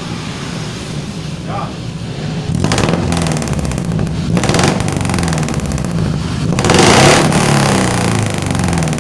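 Suzuki Carry injection engine idling through a custom exhaust with a 431-type header and a Super Big muffler, blipped up in revs three times, the third rev the longest and loudest, with the exhaust note rising and falling each time.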